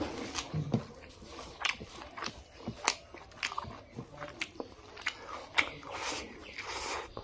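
Close-up wet chewing and lip-smacking of a mouthful of pork and rice, with sharp mouth clicks coming at irregular intervals, several a second.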